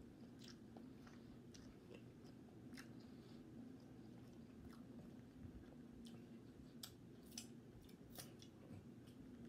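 Faint close-up chewing and wet mouth clicks of a person eating a cheese-topped sausage dog, with sharper smacks clustering in the second half, over a steady low hum.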